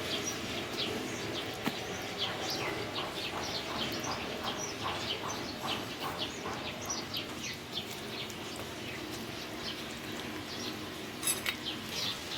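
Birds chirping: many short, quick, falling chirps repeated over and over. A few sharp clicks near the end.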